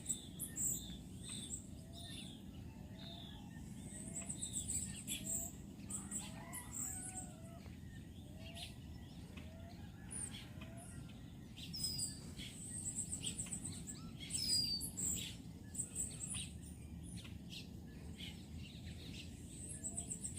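Birds chirping and trilling, with a lower short call repeated about once a second through the first half, over a low steady background rumble.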